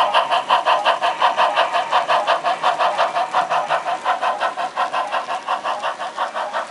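HO scale model steam locomotive's sound chuffing steadily at about four to five beats a second as it runs, slowly getting quieter.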